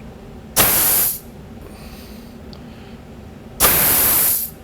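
Two short blasts of compressed air from an air nozzle into the 4L60E input drum's fluid passages, air-checking the clutch pistons for leaks. The second blast is a little longer than the first.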